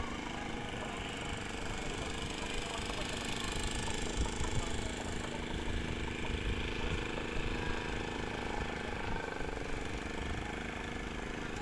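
A motor engine running steadily, with a low rumble of wind on the microphone.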